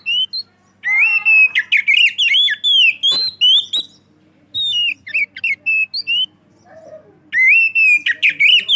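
Oriental magpie-robin (kacer) singing loudly in quick whistled, warbling phrases, three bursts of song separated by short pauses, with a few sharp clicking notes about three seconds in. This is a bird in full, prolific song (gacor).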